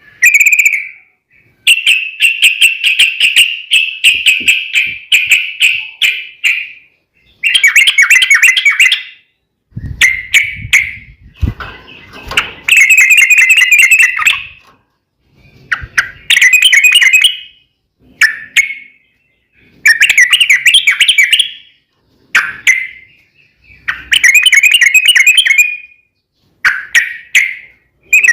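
Yellow-vented bulbul (trucukan) song: loud, bubbling chattering phrases, one every second or two with short pauses between. A few low knocks come about ten seconds in.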